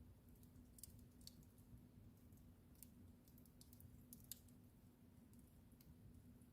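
Wood fire in a fireplace crackling quietly: irregular small pops and snaps over a low steady rumble of the flames, with a sharper pop a little past four seconds in.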